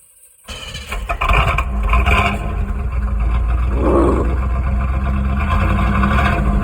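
1984 Chevrolet Camaro Berlinetta's 350 V8 on a cold start: it fires about a second in, swells briefly, then settles into a steady, loud idle.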